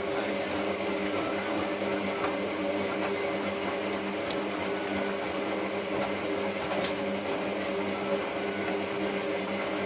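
Hotpoint 9534A washing machine running: a steady mechanical hum and whir from its motor or pump that comes on abruptly and holds steady.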